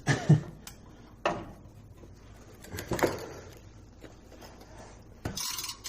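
Scattered metal clinks and knocks of a socket ratchet and tools on a tight exhaust flange nut, with a short scraping rustle near the end.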